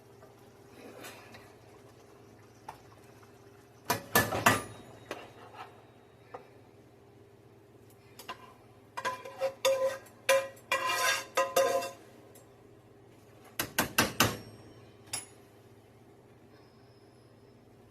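Metal utensils clinking and scraping against pots and dishes in three bursts of clatter, the middle one with short ringing tones, over a faint steady hum.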